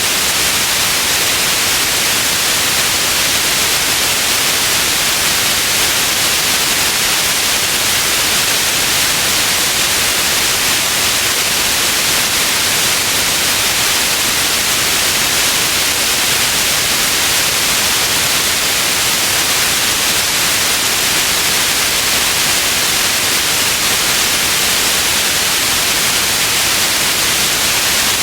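Steady white noise: an even, unchanging hiss, bright and weighted toward the high end.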